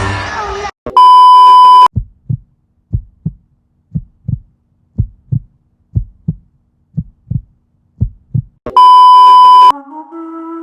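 Edited sound-effect sequence. A loud, steady beep tone lasts about a second, then a heartbeat thumps in double beats about once a second for some six seconds, then a second loud beep of about a second. Flute music starts near the end.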